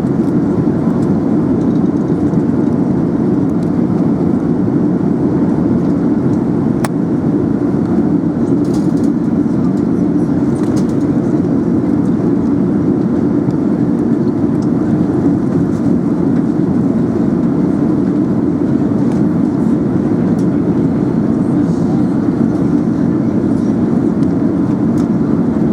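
Steady low roar of airflow and engines heard inside the cabin of an Emirates Airbus A380 in flight, unchanging throughout, with a few faint ticks.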